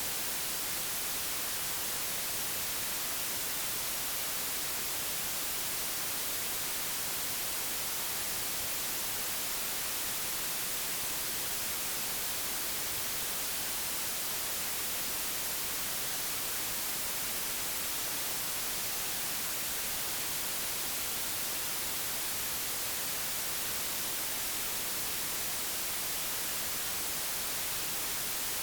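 Steady digitally generated white noise: an even, unchanging hiss, brightest in the high frequencies.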